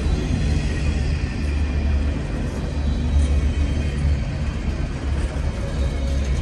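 CN intermodal freight train cars rolling past, a steady heavy rumble as the train slows down.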